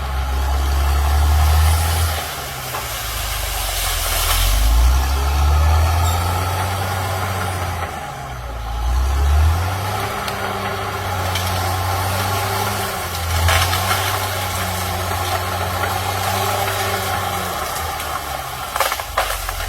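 CAT D6R XL bulldozer's diesel engine running, its pitch rising and falling several times as the load changes. A few sharp cracks come shortly before the end.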